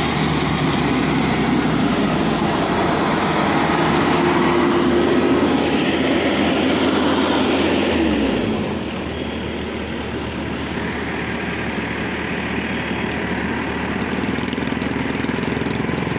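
Rice combine harvester's engine running steadily under load, then its pitch falls and it gets somewhat quieter about eight and a half seconds in, as if throttled back.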